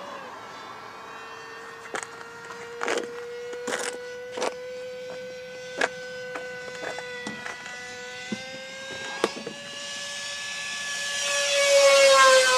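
The 64 mm electric ducted fan of an RC jet model whines steadily in flight, its pitch creeping slowly upward. About eleven seconds in it grows much louder as the jet passes close by, and its pitch drops as it goes past. Sharp clicks are scattered through the first nine seconds.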